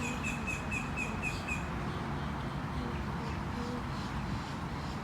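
A bird chirping a quick run of short, high, evenly spaced notes, about four a second, which stops about a second and a half in, over a steady background hiss.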